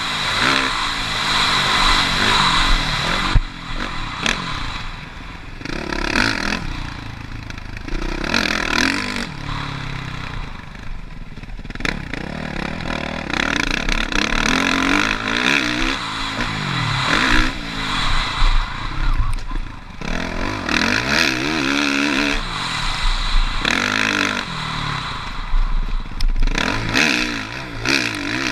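Suzuki RM-Z450 motocross bike's single-cylinder four-stroke engine on track, rising and falling in pitch over and over as the throttle is opened and shut. A clatter rides over the engine.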